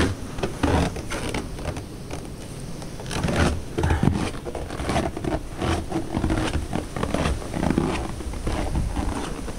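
Blizzard wind buffeting the microphone in an uneven low rumble, with irregular scrapes and knocks.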